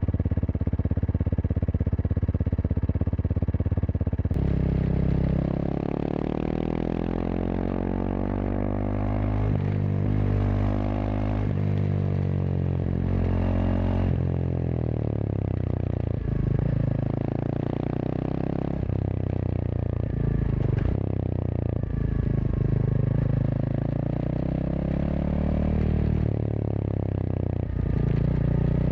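Kawasaki KLX230SM's single-cylinder engine running through a K-Factory FRC slip-on silencer while riding. The engine note holds steady for the first few seconds, then its pitch rises and falls again and again as the bike accelerates and eases off.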